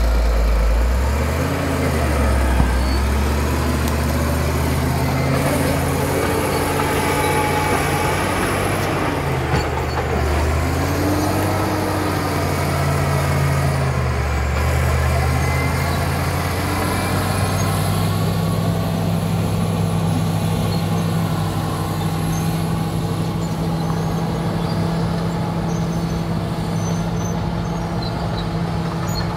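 Caterpillar D7 bulldozer's diesel engine working, its pitch rising and falling as the load changes through the first half, then running at a steady pitch from a little past halfway. A faint high whine glides up and down above it.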